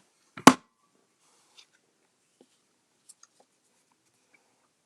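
A single sharp plastic click about half a second in as a handheld tag topper craft punch is opened, followed by faint taps and paper rustles as a strip of cardstock is handled at the punch.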